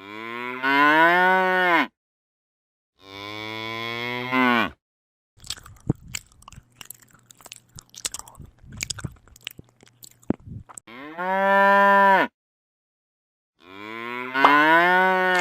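Cow mooing: four long low calls, each rising in pitch and then held, with a stretch of clicking and crunching between the second and third.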